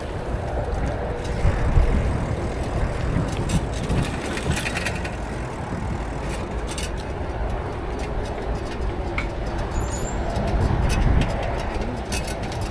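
Steady wind rumble on the microphone and road noise from a moving bicycle, with a few light ticks and rattles.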